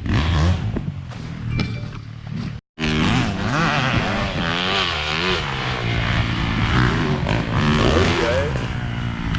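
450cc four-stroke motocross bike being ridden hard, its engine note rising and falling as the throttle goes on and off. There is a brief break of silence between two and three seconds in.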